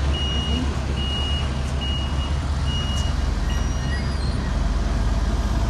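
Backup alarm on heavy construction equipment beeping in a steady rhythm, five beeps, then stopping about four seconds in, over a diesel engine running.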